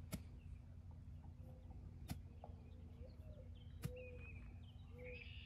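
Faint outdoor background with birds calling in short, arching notes, and three sharp ticks about two seconds apart.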